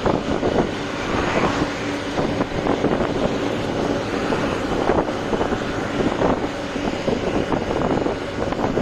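Truck driving along: steady engine and road noise with wind and frequent small rattles.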